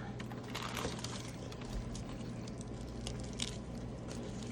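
A person biting into and chewing a sandwich, with scattered small crackles and clicks over a steady low hum.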